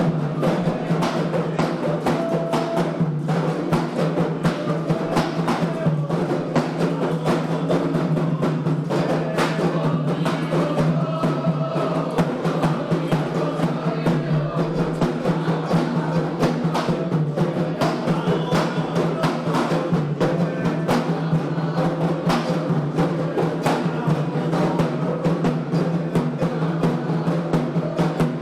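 Candomblé atabaque hand drums playing a steady, driving ritual rhythm of dense strikes without pause.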